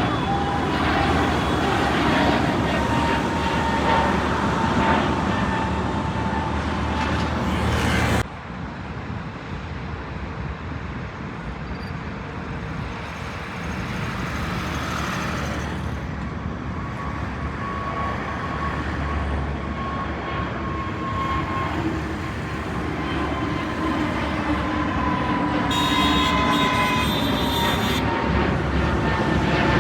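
Jet airliner engines with a steady whine that sinks slowly in pitch; about eight seconds in the sound cuts off abruptly to a quieter scene, where another jet's engine whine slowly grows louder.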